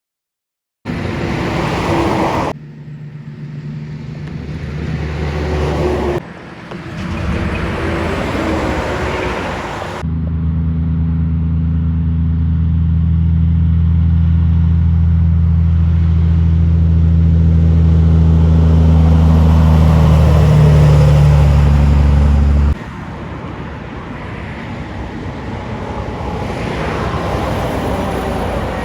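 Heavy trucks passing on a highway, in several pieces that start and stop abruptly. Through the middle stretch, from about ten seconds in, a truck's diesel engine drones at a steady low pitch for about twelve seconds before cutting off suddenly.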